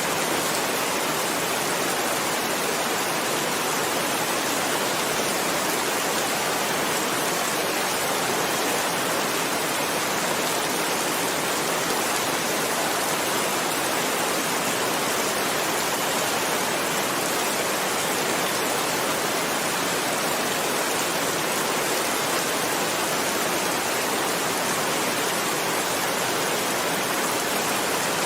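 Steady rain, an even hiss that stays the same throughout.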